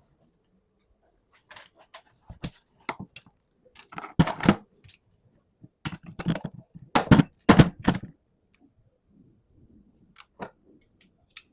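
Irregular metallic clinks and knocks of hand tools and metal parts being handled, with the loudest knocks about four seconds in and in a cluster around seven to eight seconds, then only a few faint ticks.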